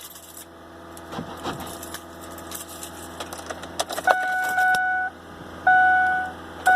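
Keys jangling and clicking at the ignition of a Ford Explorer that will not crank: the starter does not turn the engine over. From about four seconds in, a steady electronic warning tone sounds three times, each for about a second.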